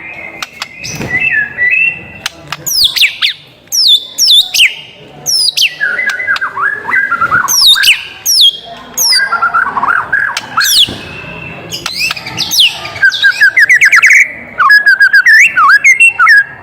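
White-rumped shama (murai batu) singing a loud, varied song of whistled notes, many sweeping down from high pitch, mixed with chattering phrases. Near the end come rapid runs of quick repeated notes.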